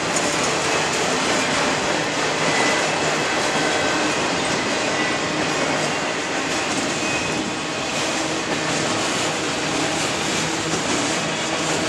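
Freight train of enclosed autorack cars rolling past close by: a steady rumble and rattle of steel wheels on the rails, with faint thin wheel squeals now and then.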